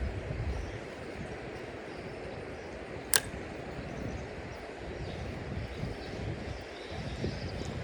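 Steady outdoor rushing noise, with one sharp click about three seconds in.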